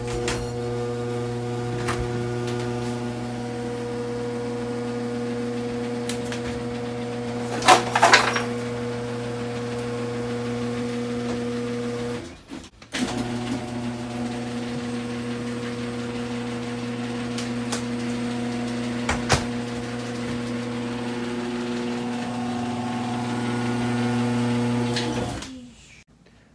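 Screw-drive garage door opener motor running with a steady hum as the freshly greased door travels. It stops briefly about halfway, then runs again for about as long, and is otherwise super quiet. A short clatter about eight seconds in is the loudest moment, with a small click later.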